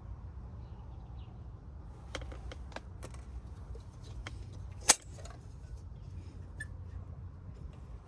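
A scattering of small clicks and taps over a steady low rumble, with one sharp, loud click about five seconds in.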